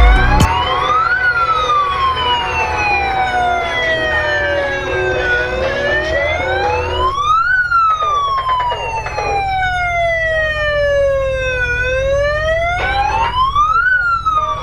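Emergency-vehicle wail siren, each cycle climbing fairly quickly to a peak and then sliding slowly back down, three peaks about six seconds apart. A low, steady engine rumble runs under it.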